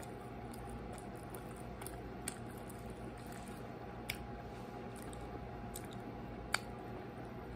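Quiet chewing of a mouthful of pizza, with three short, sharp mouth clicks spread through it, over a steady low room hum.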